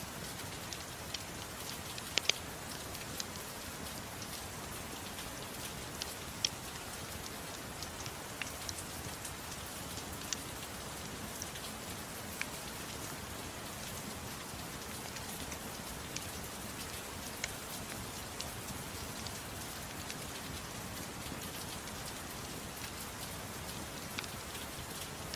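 Gentle rain falling steadily, mixed with a fireplace's wood fire crackling in scattered sharp pops.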